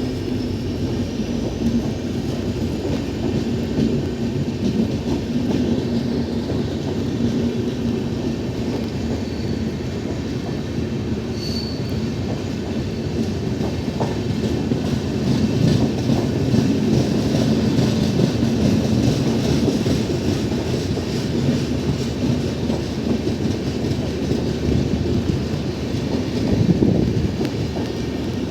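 Passenger train running past on the rails, a steady heavy rumble of wheels and coaches that swells about halfway through and again near the end. A faint high wheel squeal comes in briefly near the start and again about twelve seconds in.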